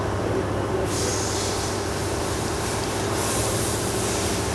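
Steady machine hum with a continuous noise bed, rising in patches of higher hiss about a second in and again near the end.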